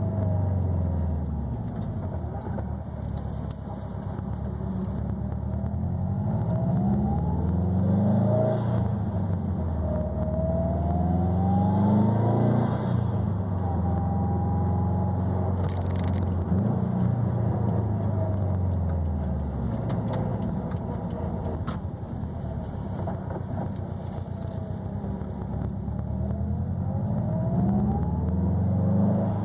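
2020 Subaru WRX STI's turbocharged 2.5-litre flat-four running through an ETS quiet catback exhaust with resonated mid pipe while cruising. The exhaust note rises and falls several times as the car speeds up and eases off, with a thin whine gliding along with it.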